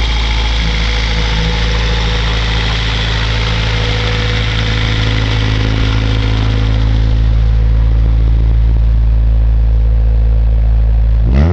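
Honda Civic's LS-VTEC engine idling steadily through an open header on its first start-up, then blipped into a sharp rev right at the end.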